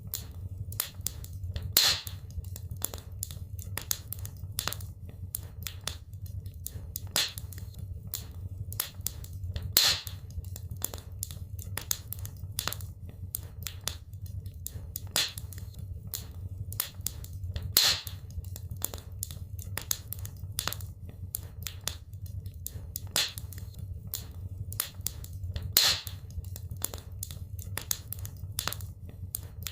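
Wood fire crackling in a fireplace: a steady run of small sharp crackles, with a louder pop about every eight seconds, over a low steady rumble.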